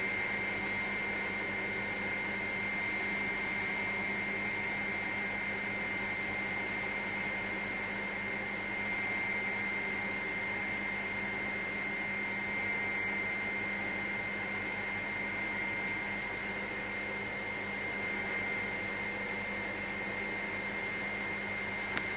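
Helicopter cabin noise in cruising flight: a steady drone from the engine and rotors with a constant high whine.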